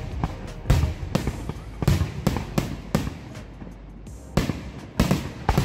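Aerial fireworks display: a rapid, irregular string of more than a dozen sharp bangs from bursting shells, each with a low rumble, with a short lull a little past the middle.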